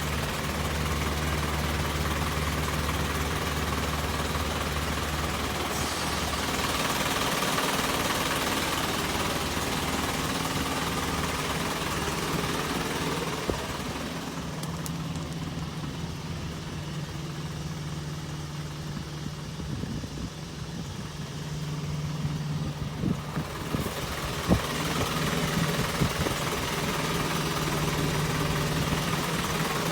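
Isuzu Forward truck's engine idling steadily, its pitch shifting a little a couple of times, with a few short knocks in the last third.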